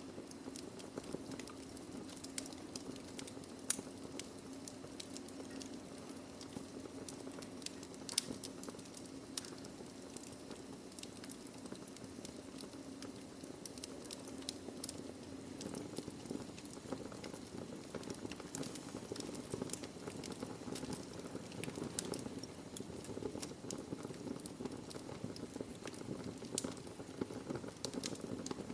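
Wood fire burning in a fireplace: a steady low hiss under many irregular crackles and pops of burning logs, with a sharper pop about four seconds in.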